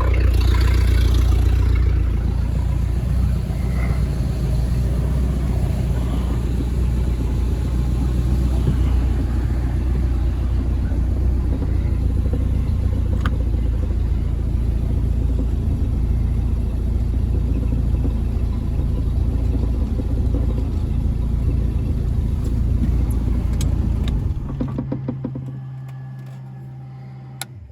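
Boat engine running at a steady idle, then shut off about 24 seconds in. A lower steady hum carries on for a few seconds after it and stops suddenly just before the end.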